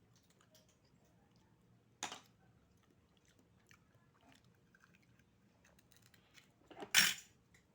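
Someone eating oysters: quiet chewing and small clicks of shell and utensils against a plate, with a sharp clack about two seconds in and a louder clatter near the end.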